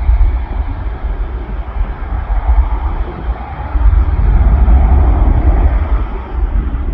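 Aircraft engine noise: a loud, steady rumble and roar that swells in the middle, with wind buffeting the microphone.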